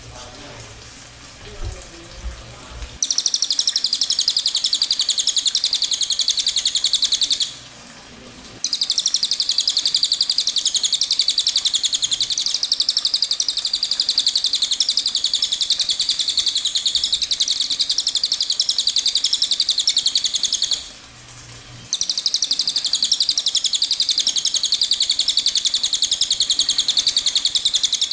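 A small songbird singing a very rapid, high-pitched trill in three long unbroken runs, each lasting several seconds, with short pauses between them.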